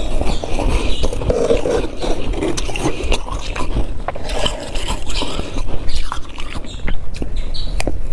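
Crunchy humidifier-grown freezer frost being scraped by hand, a close, dense crackling with many sharp crisp clicks and no pause.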